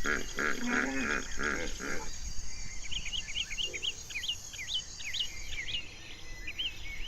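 Hippo grunting in a quick series of pulsed honks for about the first two seconds. After that a bird chirps repeatedly, with a faint steady high insect hum underneath.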